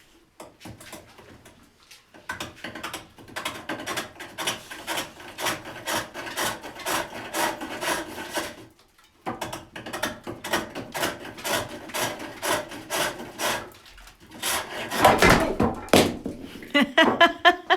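Hook tool cutting wood on a foot-powered pole lathe, a rhythmic chatter of cuts repeating with the treadle strokes and a short pause partway through. About 15 seconds in comes a loud sudden clatter, a dramatic catch of the kind that happens with a new mandrel.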